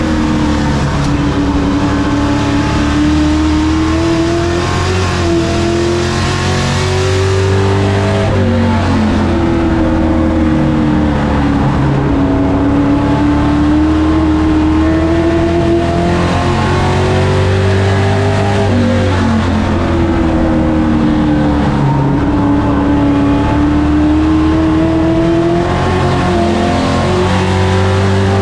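Race truck engine running hard on a short oval. Its pitch sinks as it slows through each turn and climbs again under throttle down each straight, in a cycle about every ten seconds.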